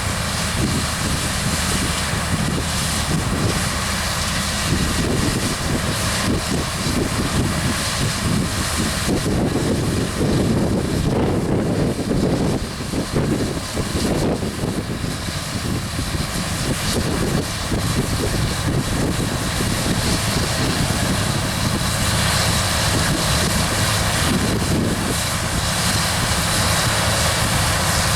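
New Holland TX64 combine harvester running steadily as it harvests wheat: diesel engine and threshing machinery making a continuous dense drone that swells irregularly in the middle.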